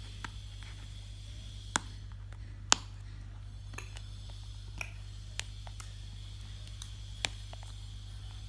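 Packaging being handled during an unboxing: a handful of sharp, separate clicks and taps, the loudest nearly three seconds in, over a steady low hum.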